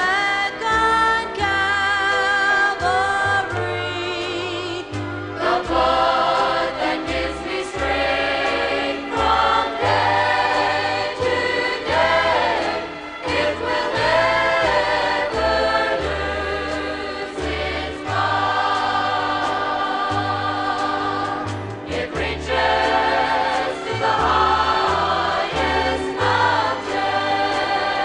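Choir singing a gospel song with instrumental accompaniment and a steady bass line.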